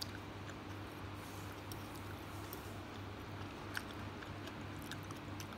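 A person chewing a mouthful of noodles with small, faint mouth clicks, and one sharper click a little before four seconds in, over a steady low hum.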